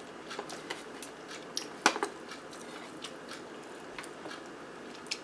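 Close-miked chewing of a soft, cheese-topped zucchini boat: quiet wet mouth sounds and small clicks, with one sharper click about two seconds in.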